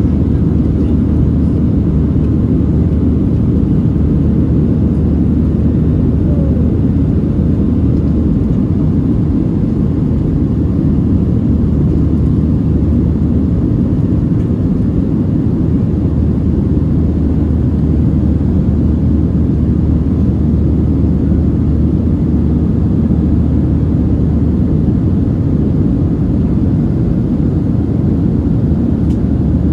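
Steady, loud low rumble inside the cabin of a Boeing 737-700 in motion, from its CFM56-7 jet engines and the airflow around the airframe.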